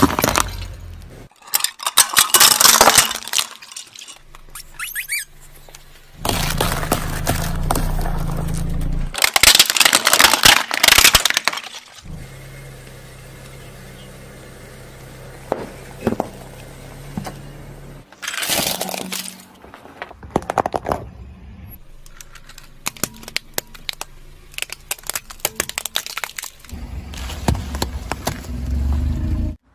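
A car tyre crushing brittle objects: several bursts of cracking and crunching, the loudest about ten seconds in, with stretches of low steady car rumble between them and a run of sharp snapping cracks in the second half.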